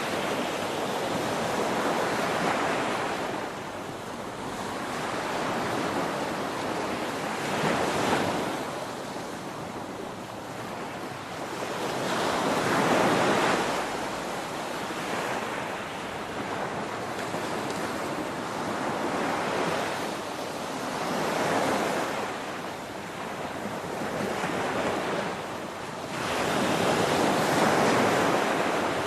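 Ocean waves breaking on a shore: a continuous wash of surf that swells and eases every few seconds, the largest surge near the end.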